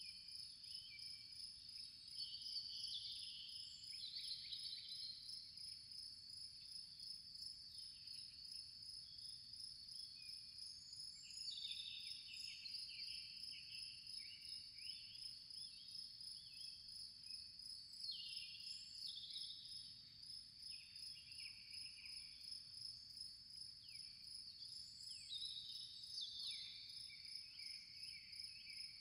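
Faint nature ambience: a steady, high, pulsing insect trill, typical of crickets, with short falling bird chirps over it every second or two.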